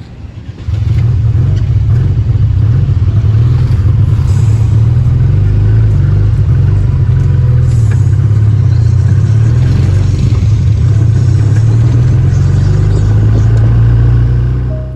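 Loud, steady low rumble of a vehicle on the move, starting about a second in and fading out near the end.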